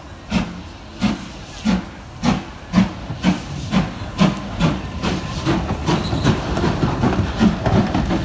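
Steam locomotive pulling away, its exhaust chuffs quickening steadily from well under two a second to about three a second and growing louder as the train gathers speed.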